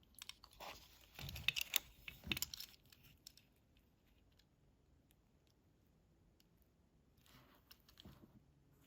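Faint clicks and rustles of a small die-cast toy car being handled, mostly in the first three seconds, then near quiet with one soft rustle near the end.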